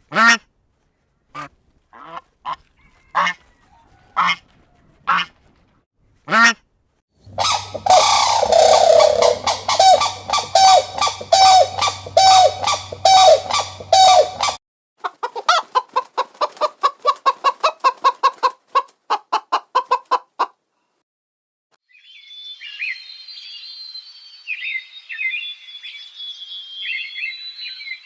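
A series of separate animal calls, most likely birds and fowl. First come single calls about a second apart. Next is a fast run of loud repeated calls with a low hum under it, then a rapid pulsed chatter, and then high, thin chirping near the end. Each part stops suddenly, as if cut.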